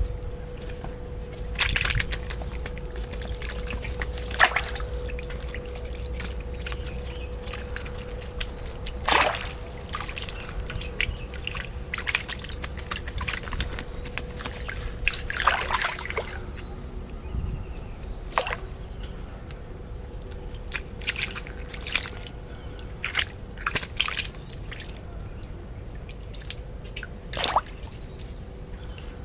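Water splashing and dripping in irregular bursts, with a steady faint hum underneath.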